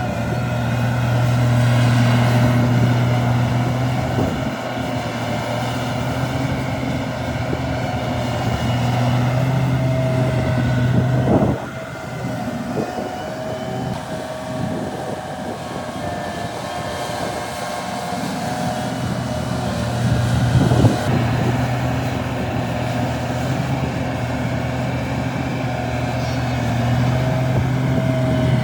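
Heavy earthmoving machinery's diesel engine running, its low steady hum swelling and easing several times as it works under load. A sharp knock comes about eleven seconds in, and another about twenty-one seconds in.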